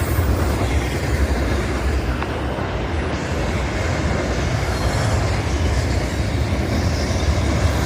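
Train rolling past at speed on a main line: a steady, loud rumble of wheels on rail.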